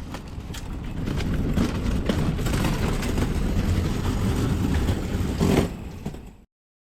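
Car driving: steady engine and road rumble that grows louder over the first second or so, then cuts off suddenly near the end.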